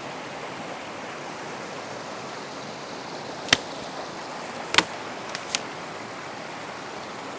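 A small creek running over rocks, a steady rushing. A few sharp clicks or snaps come in the middle, one about three and a half seconds in and three more over the next two seconds.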